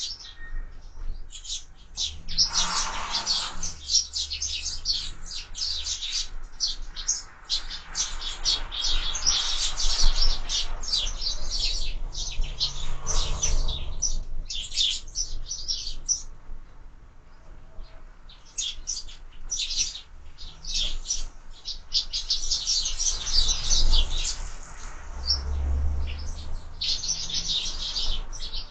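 A flock of sparrows chirping busily at a window bird feeder, many short high chirps overlapping, easing off for a few seconds in the middle. Occasional low thumps sound under the chirping.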